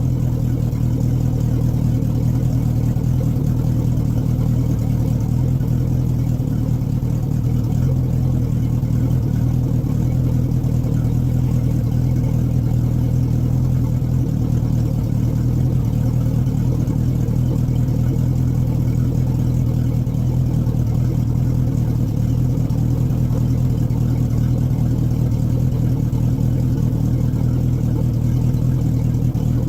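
Chris-Craft boat engine idling steadily out of the water, fed through a garden-hose attachment on the drive while RV antifreeze is run through its cooling system for winterizing.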